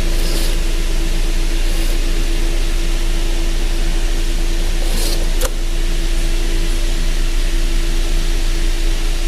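A steady mechanical hum with a constant low tone, and a sharp click about five and a half seconds in.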